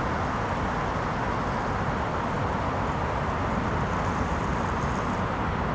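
Steady rolling rumble of a passenger train passing, with a faint high whistle about three to five seconds in.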